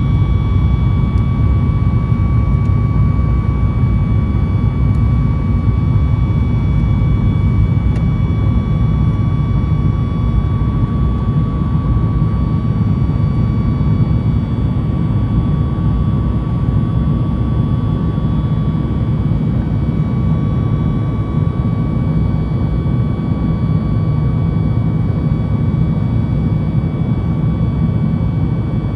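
Boeing 737 MAX 8's CFM LEAP-1B engines and airflow heard from inside the passenger cabin: a steady deep rumble with a thin, constant high whine over it. The sound eases slightly near the end.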